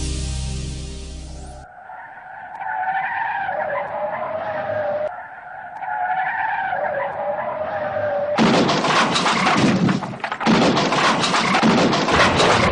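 The tail of electronic music, then car tyres screeching in two long wavering squeals. About eight seconds in, loud crash noise full of knocks and clatter takes over.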